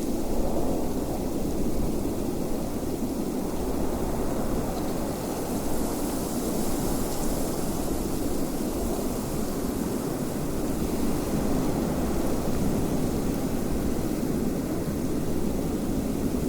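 Steady rushing wind, a low even rush of noise with a fainter hiss above it.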